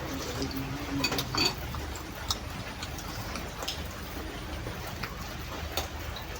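Eating sounds: a few sharp clicks and crunches, the busiest about a second in, over a steady low background noise.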